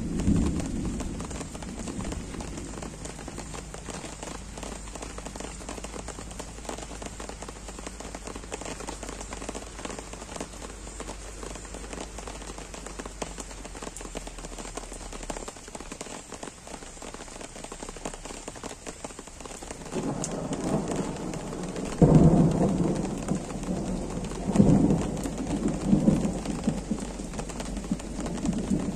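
Gentle, steady rain falling. About two-thirds of the way in, thunder starts to rumble, breaks into a sudden loud clap, then rolls on in two or three further rumbles near the end.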